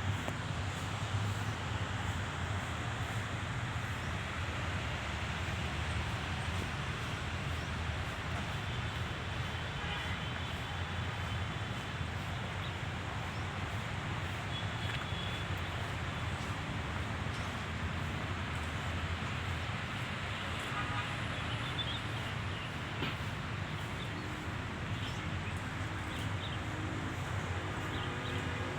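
Steady outdoor background noise: a continuous low rumble with a few faint high chirps a third of the way in and again later.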